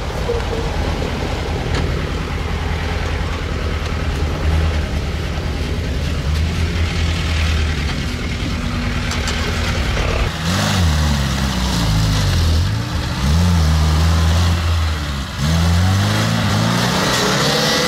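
Off-road 4x4's engine running steadily. From about ten seconds in it revs up and down several times.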